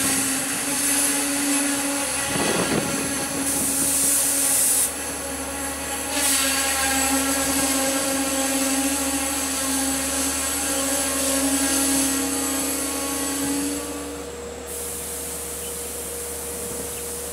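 Long Island Rail Road diesel train with bilevel coaches rolling slowly into the station and coming to a stop. A steady whine runs until about fourteen seconds in, and a burst of hiss comes about four seconds in.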